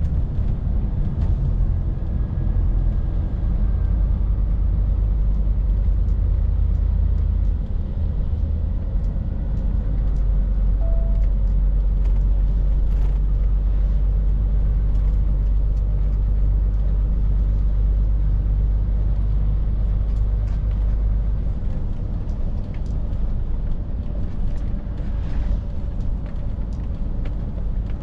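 Scania R450 lorry's 13-litre straight-six diesel running under way, a steady deep drone with road noise. The lowest rumble eases a little about three quarters of the way through.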